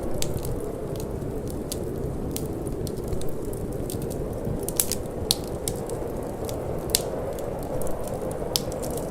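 Wood fire burning in a fireplace, crackling with irregular sharp pops, a few louder ones around the middle and near the end, over a steady low rushing noise of cold wind.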